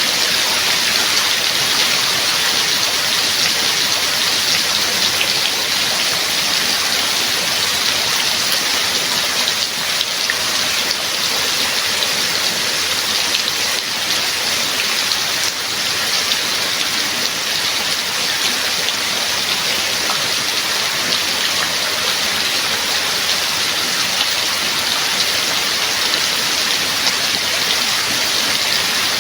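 Steady heavy rain falling, a dense even patter of drops hitting a surface.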